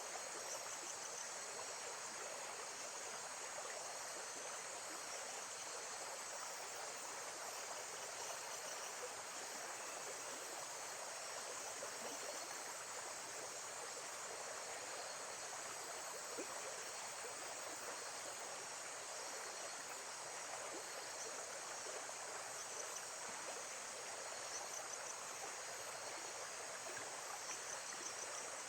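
Lake-side nature ambience: a steady, even rush of flowing water.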